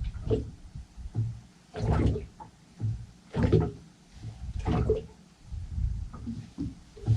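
Small waves slapping and splashing against the hull of a small fishing boat, in a repeated rhythm of about one slap every second and a half.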